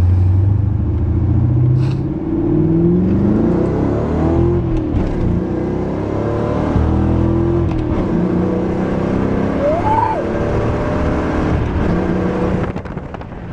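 Ford Mustang GT 4.6-litre V8 running through Flowmaster mufflers on a Pypes H-pipe with no catalytic converters and no tailpipes, revving up in pitch about two seconds in, easing back to a steady run, and rising briefly again later; the sound drops off near the end.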